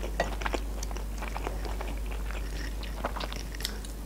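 Close-miked chewing and biting of a KFC fried chicken strip: small wet mouth clicks and soft chews. The breading is not crunchy.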